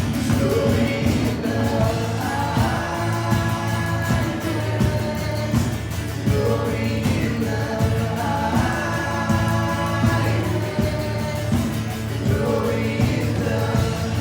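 Worship song: several voices singing a melody over a band, with a steady beat and bass.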